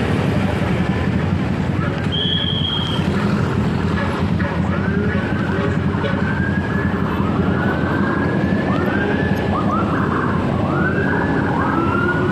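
An emergency-vehicle siren sounds in repeated rising-and-falling sweeps, about one a second, starting about four seconds in. Underneath is the steady rumble of a motorcycle riding in traffic, and a short high beep comes about two seconds in.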